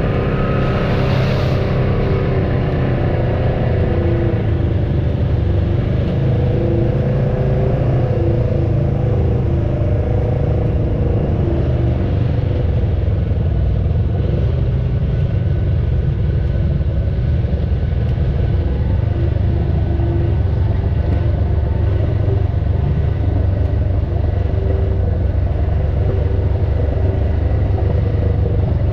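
Off-road vehicle's engine running steadily at low revs, with a brief hiss about a second in.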